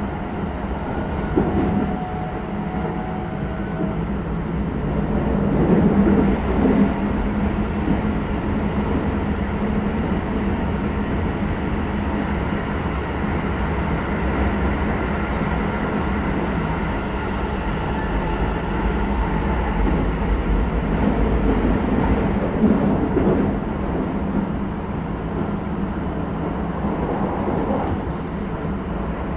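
Interior running sound of a Keisei 3100 series electric train at speed: a steady rumble of wheels on rail with scattered knocks from rail joints. Faint steady tones in the first few seconds fade out.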